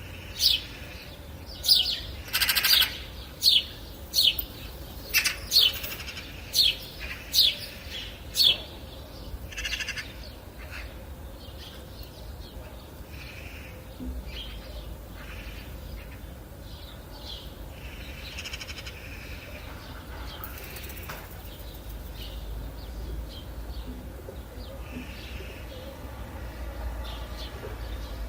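Birds calling: a run of loud, short, sharp calls repeated about once a second for the first nine seconds, then softer scattered chirps over a steady low background rumble.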